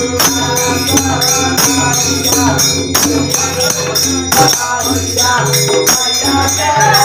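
Devotional folk bhajan: singing over a hand drum and jhal hand cymbals clashing in a steady, regular beat.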